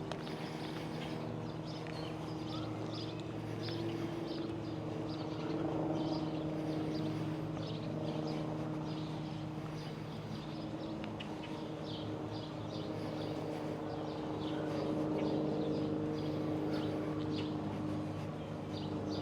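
Birds chirping over and over, short high chirps, over a steady low hum made of several held tones.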